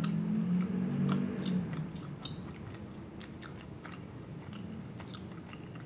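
A person chewing a bite of air-fried tofu wing in buffalo sauce with the mouth closed, with small sharp crunching clicks scattered through. For the first couple of seconds a low hummed "mmm" of enjoyment sounds over the chewing.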